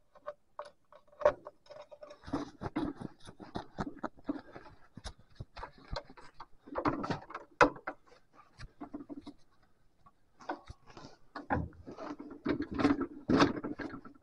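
Irregular clicks, knocks and rattles of hands working a tractor's ignition key and controls, coming in clusters with short scraping stretches; no engine is running.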